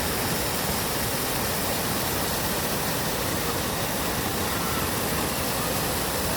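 Waterfall, a steady unbroken rush of falling water.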